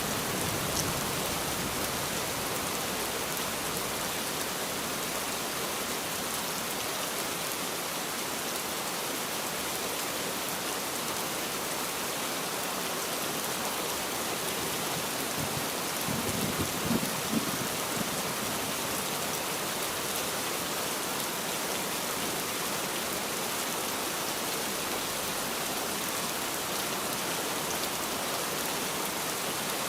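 Steady heavy rainfall, an even dense hiss of drops falling on surfaces. A little past halfway comes a brief low rumble of a few bumps.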